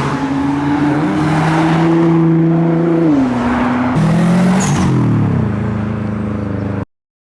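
Modified cars driving past and accelerating away, engine notes holding steady and then stepping down in pitch at a gear change about three seconds in, with another engine note falling away about five seconds in. The sound cuts off suddenly near the end.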